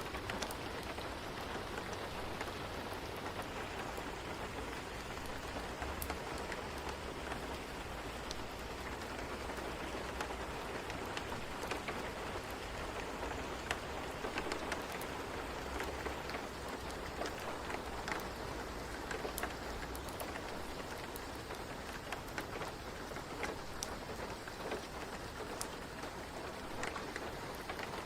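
Steady rain falling, an even hiss of drops with scattered sharp ticks, over a low rumble that fades out about twenty seconds in.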